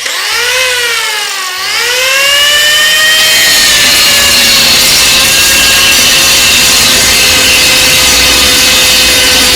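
A power cutting tool running under load, a noisy cutting sound with a whine on top. The pitch sags about one and a half seconds in, then climbs back and holds steady.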